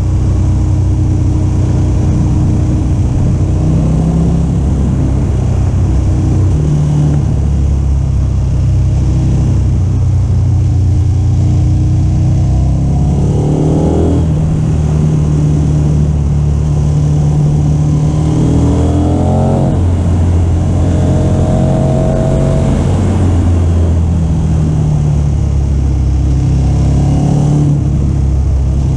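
KTM 1290 Super Adventure S motorcycle's V-twin engine running under way, with steady wind rush. The engine note rises twice as the bike accelerates, once near the middle and again about two-thirds through.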